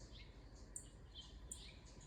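Birds chirping faintly: short, high chirps about every three-quarters of a second, with softer, lower calls in between.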